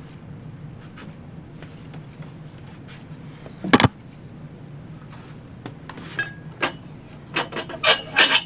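Objects being handled in a workshop over a steady low hum: one loud knock a little under four seconds in, then a quick run of clicks and clinks near the end.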